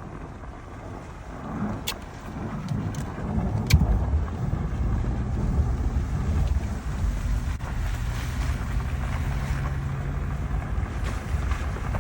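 A low rumbling noise that swells about two seconds in and then holds steady, with a few sharp clicks in the first four seconds.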